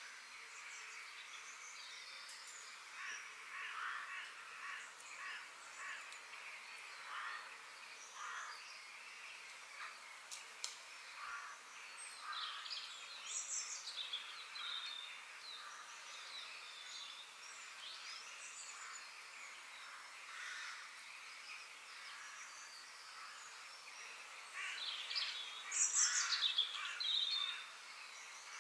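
Several wild birds chirping and singing with many short, overlapping calls, rising to a louder flurry of calls near the end.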